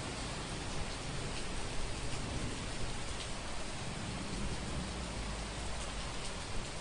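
Steady rain falling, an even hiss with scattered drop ticks. A low rumble swells briefly about four seconds in.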